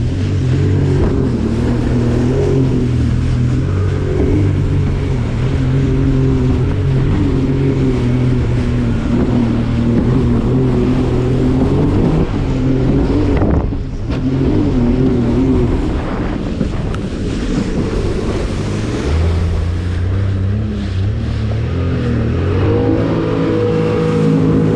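Jet ski engine running under way, its pitch rising and falling as the throttle changes, with a short drop in loudness about fourteen seconds in.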